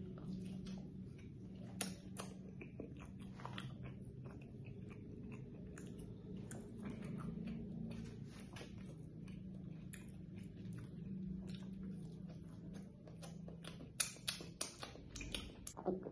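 Close-miked chewing of grilled chicken boti: irregular wet mouth clicks and smacks over a low steady hum, with a run of sharper, louder clicks near the end.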